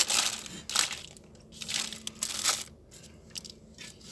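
Packaging crinkling and rustling as it is handled, in several short bursts, then dying down to a few faint ticks.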